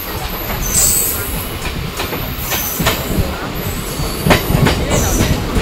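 Passenger train coaches running along the track, heard close beside the wheels: a steady rumble with a few sharp clacks over rail joints and points, the loudest about four seconds in, and a thin high wheel squeal coming and going.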